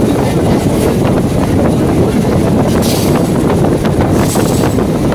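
Electric multiple unit (EMU) local train running at speed, heard from inside the coach: a steady rumble and rush of wind, with scattered clicks and rattles from the wheels and coach.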